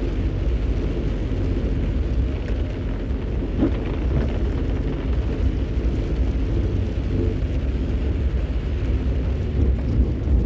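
Vehicle driving on a wet mountain road: a steady low rumble of engine and tyres, with a few faint clicks about four seconds in.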